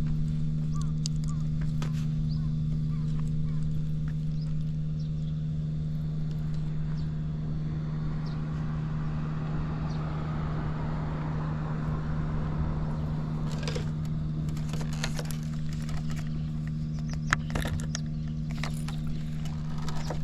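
Early Honda Motra AD05's small single-cylinder four-stroke engine idling steadily after a cold start, quiet with no abnormal noise. Scattered sharp clicks come in over the second half.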